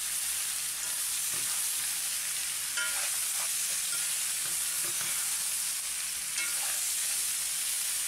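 Sliced star fruit sizzling in hot coconut oil with garlic and hot peppers, being stir-fried with a metal spoon that scrapes and clinks against the pot a few times over the steady sizzle.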